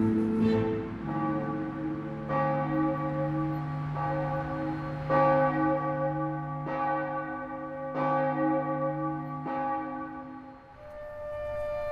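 Large church bells tolling: about six slow strikes, roughly a second and a half apart, each ringing on with a long fading hum.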